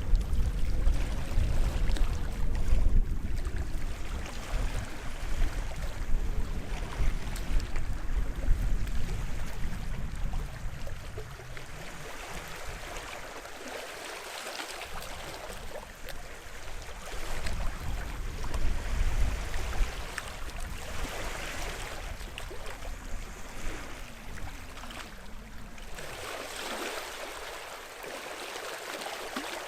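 Waves washing onto the shore, swelling and falling as a rushing hiss, with a low wind rumble on the microphone that fades after about ten seconds.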